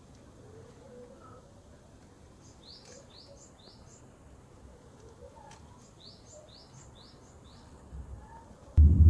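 A small bird calling outdoors, two quick runs of about four short falling chirps each, over faint background noise. Near the end a sudden loud low rumble cuts in.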